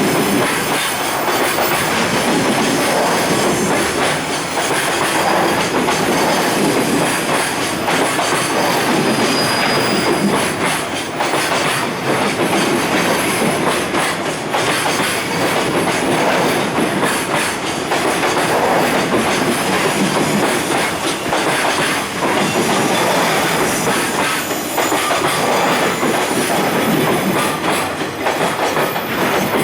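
Loaded container wagons of a long freight train rolling steadily past, their wheels clacking over the rail joints. There is a brief high squeal about ten seconds in.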